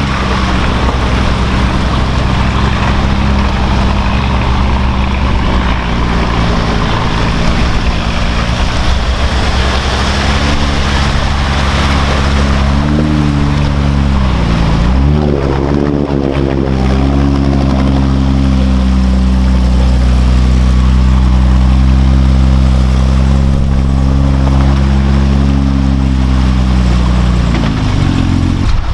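Off-road truck engine running hard under steady throttle. About halfway the revs dip sharply and climb back, then hold steady, and they drop off near the end.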